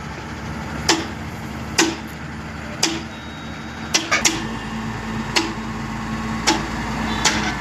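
Sharp knocks, roughly one a second, over a low steady hum that becomes stronger and steadier about four seconds in.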